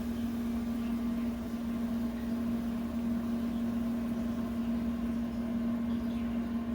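Steady hum of a kitchen oven running while it bakes, one even tone with low background noise.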